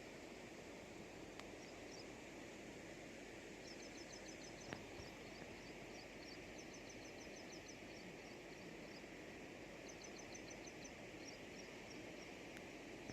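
Faint, steady outdoor background noise with repeated bursts of quick, high chirping trills from a small creature, a bird or insect. A single sharp click comes a little under five seconds in.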